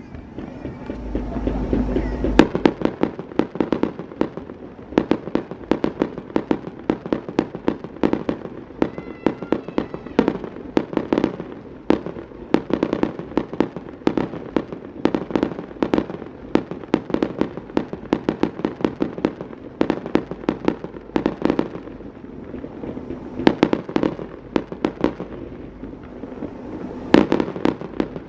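Aerial fireworks bursting in rapid succession: dozens of sharp bangs and crackles, easing a little about 22 seconds in before fresh clusters of bursts near the end.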